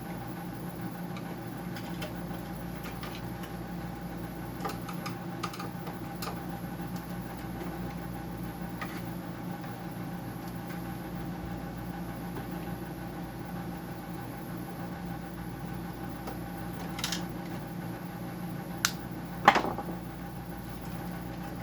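Scattered light clicks and knocks of hand tools and plastic parts being handled while a dehumidifier is taken apart, the loudest a sharp clack near the end, over a steady machine hum.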